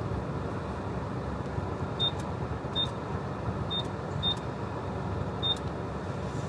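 Five short, high-pitched electronic beeps at irregular intervals over a steady low background noise.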